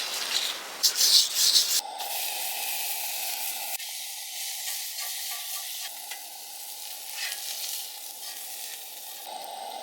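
Food sizzling in a hot frying pan, with a cluster of loud scraping or stirring strokes in the first two seconds before the steady sizzle carries on.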